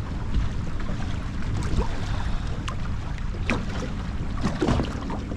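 Wind rumbling on the microphone over water lapping against a small boat's hull, with a few short clicks and splashes.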